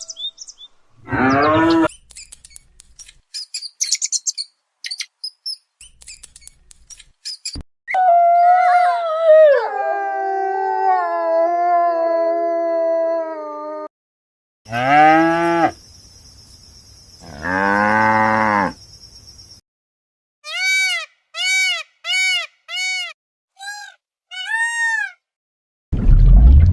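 A string of different animal calls one after another, among them two long cow moos in the middle, followed by a run of seven short, evenly repeated calls.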